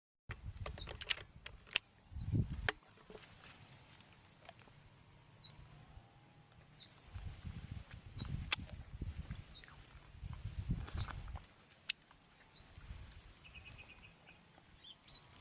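A bird repeats a short, high, rising chirp about once a second. Several sharp clicks and a few low rumbles come in between.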